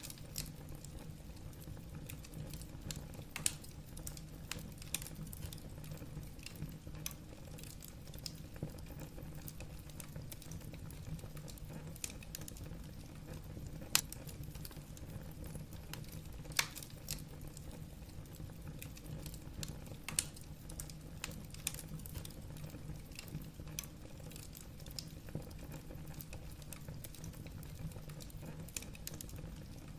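Wood burning in a fireplace, crackling with irregular sharp pops and snaps over a low steady hum, the loudest pops about halfway through.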